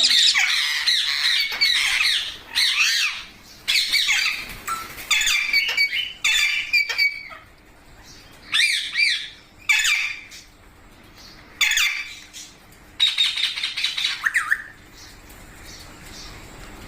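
Pet green parrot squawking in repeated bursts of short, shrill calls that rise and fall in pitch.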